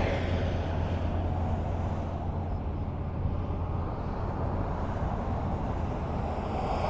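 Highway traffic: a passing vehicle fades away at the start, leaving a steady low road rumble, and the next vehicle approaches, growing louder near the end.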